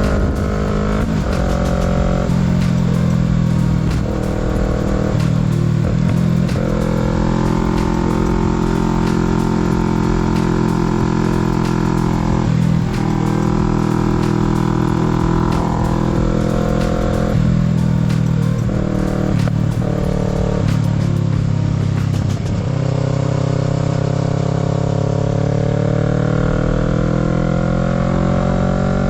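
Kawasaki Z650's parallel-twin engine heard from the rider's seat, riding hard through the gears with a drop in pitch at each of many shifts. Near the end it eases off, then pulls away again with rising revs.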